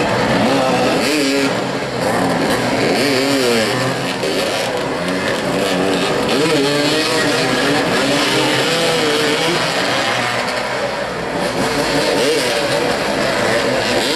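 Several motorcycle engines revving up and down together, their pitch repeatedly rising and falling, as motoball players ride around the pitch.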